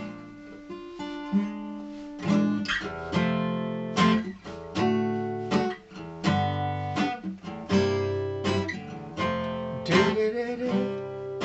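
Acoustic guitar playing a chordal introduction to a song, with strummed and plucked chords struck every half second to a second and left to ring.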